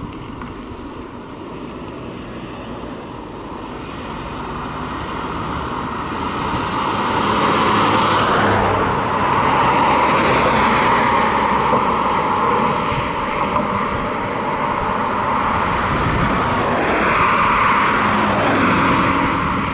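Road vehicles driving past: engine and tyre noise swells as one passes about halfway through and again near the end, with no siren.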